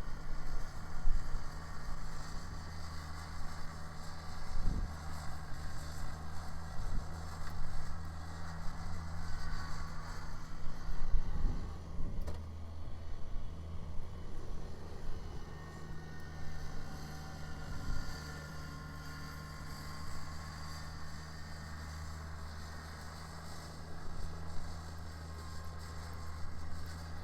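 Kubota BX sub-compact tractor's diesel engine running steadily while its rear-mounted snow blower clears snow, with a few brief thumps in the first half.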